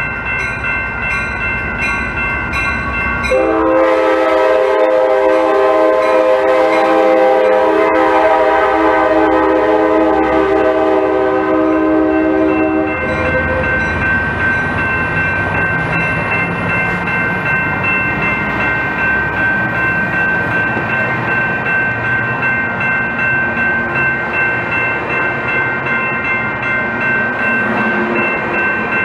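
A Coaster commuter train passing close by. Its horn sounds one long multi-note chord for about nine seconds, starting a few seconds in. A bell rings steadily throughout, and the bilevel cars keep rolling by after the horn stops.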